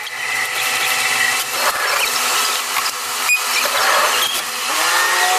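Diesel railcar's running sound played back at eight times speed, heard as a dense, high-pitched mechanical whirr with steady tones. Near the end it breaks into rising whines as the railcar pulls away and gathers speed.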